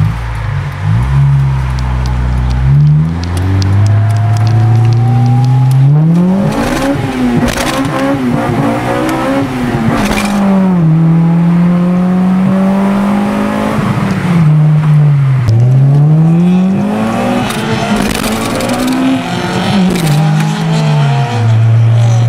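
A Honda four-cylinder engine through a loud aftermarket exhaust, revving repeatedly. Its note climbs to a high pitch and drops back several times, with a long climb about 3 to 7 seconds in and further rises and falls around 15 and 19 seconds in.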